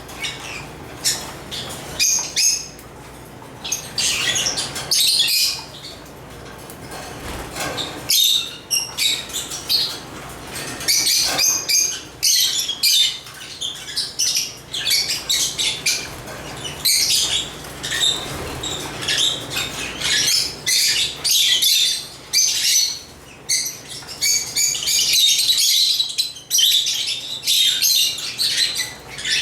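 African lovebirds (Agapornis) chirping and chattering: rapid, high-pitched chirps in short bursts, with brief pauses between.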